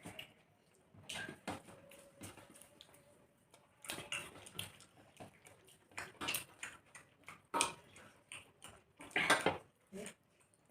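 Eating sounds from a meal of rice and chicken curry: irregular chewing, smacking and mouth noises, with occasional scrapes and clinks against a plate.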